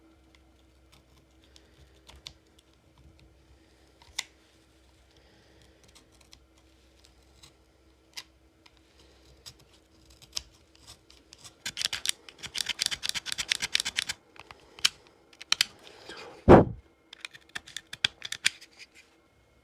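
Hands working on a phone charging cable: scattered small clicks and taps, then a dense run of rapid clicking in the second half, and one loud thump.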